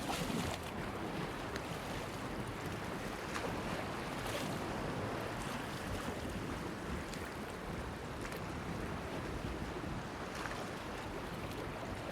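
Small waves lapping and splashing against a stone breakwater, with a few brief splashes standing out over a steady wash of water and wind.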